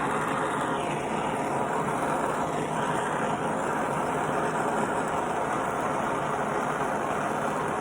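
Brazing torch flame hissing steadily as it heats the compressor's refrigerant line joints for soldering.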